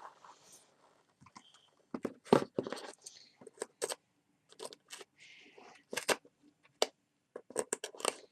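Fingers picking and scratching at the strong packing tape on a cardboard box, making scattered sharp clicks and taps with short bursts of scraping about three and five seconds in.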